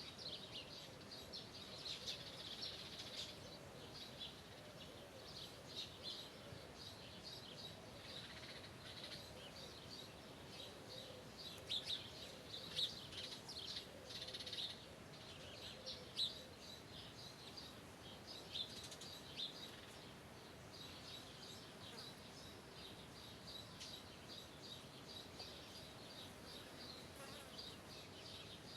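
Birds chirping in many short, high calls, busiest around the middle, with a faint steady low hum beneath.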